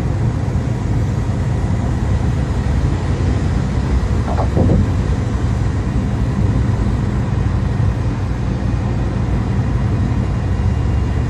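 Steady low rumble of a car driving, road and wind noise in the cabin, with a brief faint sound about four and a half seconds in.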